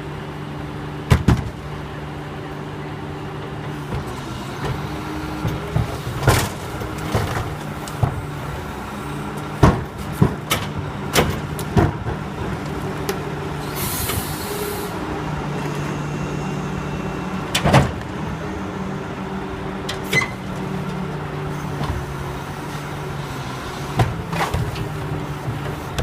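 Garbage truck running steadily with its engine and hydraulics humming, broken by repeated sharp metallic clanks and bangs as a refuse container is handled. There is a short burst of air hiss about halfway through.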